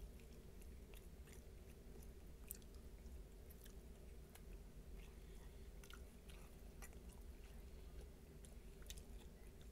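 Faint close-up eating sounds: a man chewing oxtail meat pulled off the bone with his fingers, with scattered soft mouth clicks and smacks over a steady low hum.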